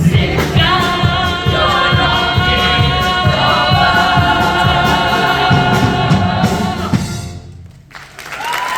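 A chorus of voices and band holding the long final chord of a gospel-style show tune, with drums beating under it, cutting off sharply about seven seconds in. Applause starts near the end.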